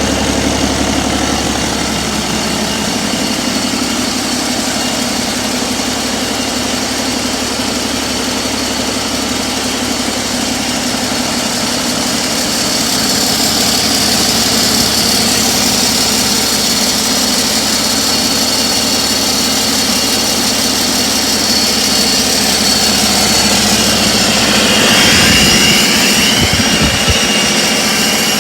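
15-litre Cummins X15 diesel engine running steadily. About halfway through a high whine grows stronger, and near the end a whine sweeps upward in pitch as the low rumble falls away.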